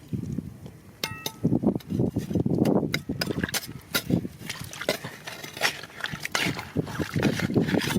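Stones and gravel clinking, knocking and scraping as they are handled, with splashing water and a brief high chirp about a second in.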